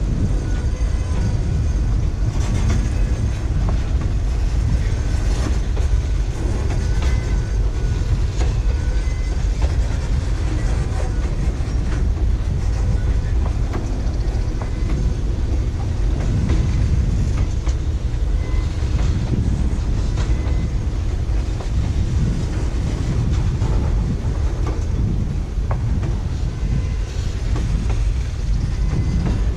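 Cars of a Kansas City Southern ballast train rolling past, with a steady heavy rumble and the clickety-clack of wheels over the rail joints.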